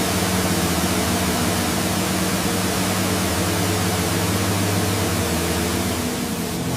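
Steady loud hiss over a low, steady hum, holding level throughout and dipping slightly near the end.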